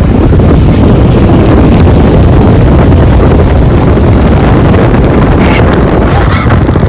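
Loud wind buffeting the microphone on a moving pickup truck, over the truck's low rumble.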